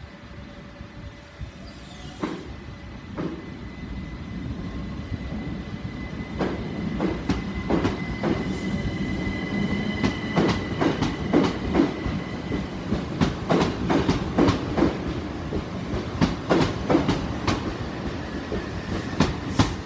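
Southern Class 377 Electrostar electric multiple unit pulling out, its wheels clicking over rail joints and points, the clicks coming faster and louder as it gathers speed. A thin steady whine runs through the first half.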